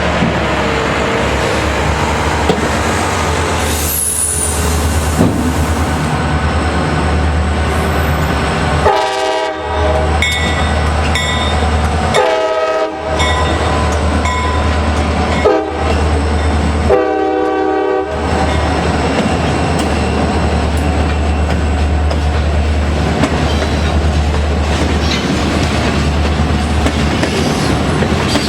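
Train's air horn sounding the grade-crossing signal as a chord: long, long, short, long. Under it runs the steady low rumble of the train moving along the track.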